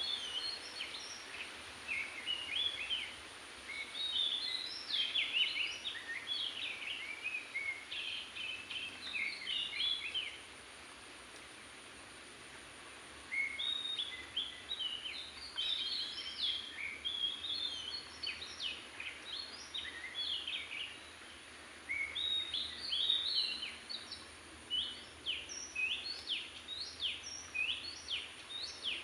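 A songbird singing long runs of quick, varied whistled phrases, breaking off for about three seconds midway before starting again.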